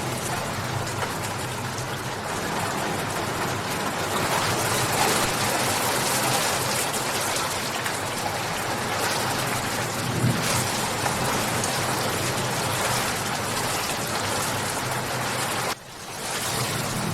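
Steady rain falling, a dense continuous hiss of many drops. Near the end it briefly drops away, then comes back.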